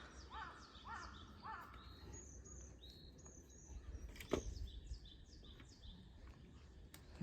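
Faint birds chirping in the background, with three short, arching calls in the first two seconds and a single sharp knock about four and a half seconds in.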